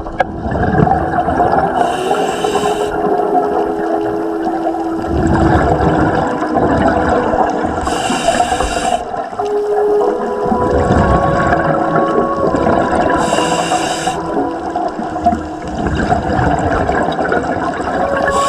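Scuba diver breathing through a regulator underwater: a short hissing inhale about every five to six seconds, with bubbling, gurgling exhalations between them.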